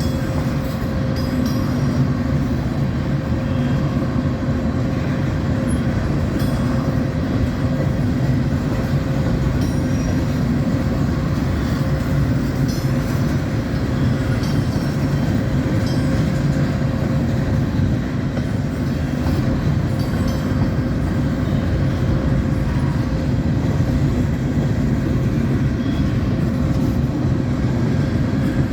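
A moving vehicle running steadily: a constant engine drone with a steady hum over continuous rolling noise, and a few faint clicks.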